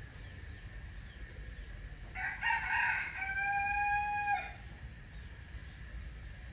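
A rooster crows once, about two seconds in: a choppy opening and then a long held note, lasting a little over two seconds.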